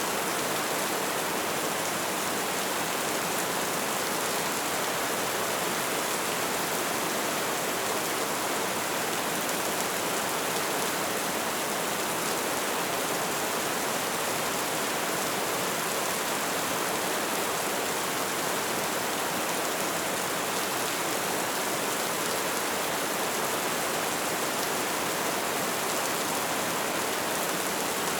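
Light rain falling in a steady, even hiss with no distinct drips or changes.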